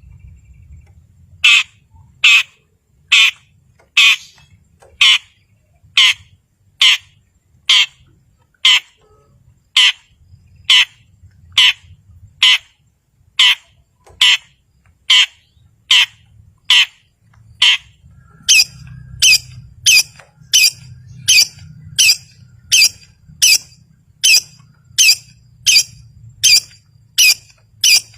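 Long-tailed shrike (cendet) in full song, repeating one short call again and again, a little more than one a second. About two-thirds of the way in the calls speed up to about two a second and sit higher in pitch.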